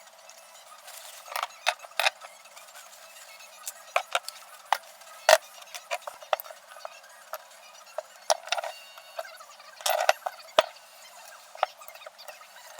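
Hand tools and metal brake parts clicking and clinking as they are handled, in a dozen or so irregular sharp knocks.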